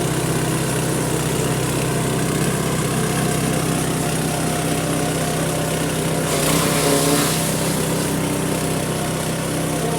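Grass chopper machine's engine running steadily, with a brief louder rush of hissing noise about six seconds in.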